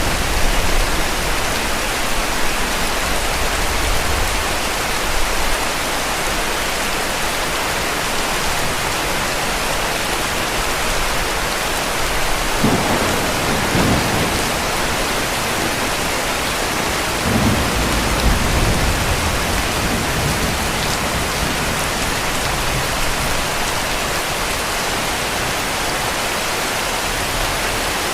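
Heavy rain falling steadily, with low rumbles of distant thunder swelling about halfway through and again a few seconds later.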